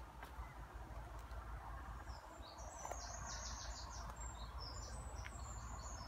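A songbird singing a fast run of short, high notes, starting about two seconds in, over a steady low background hum.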